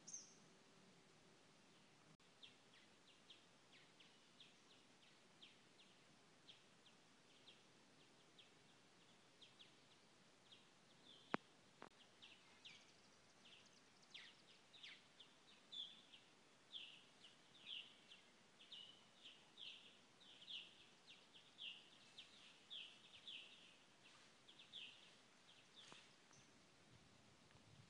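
Faint birdsong in the open air: many short chirps, sparse at first and busier from about halfway on. One sharp click near the middle.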